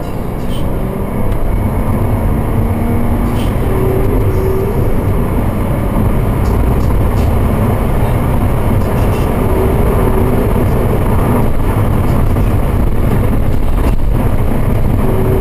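Subaru Legacy's EZ30 flat-six engine and tyre noise heard from inside the cabin while driving fast, pulling harder about a second in and then running steadily at speed.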